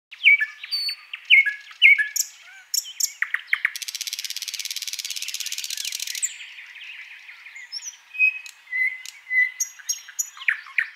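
Birds chirping and calling: repeated short downward-sweeping calls, a fast buzzing trill lasting about two and a half seconds near the middle, then higher whistled notes.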